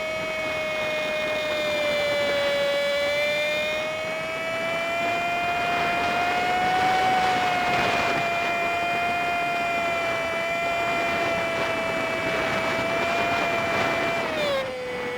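Honda Super Cub 50's single-cylinder engine under way, sped up fivefold so it sounds like a high, steady whine whose pitch wavers slightly. The pitch drops near the end as the engine slows.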